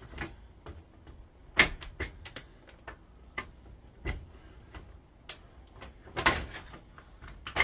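Irregular sharp clicks and knocks of tools against plastic and metal parts as the cooling fan is worked loose from inside a stripped induction hob, with two louder knocks, about one and a half seconds in and near six seconds.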